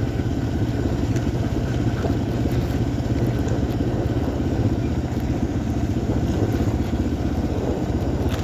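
1990 Yamaha XT350's single-cylinder four-stroke engine running steadily while riding at a slow pace.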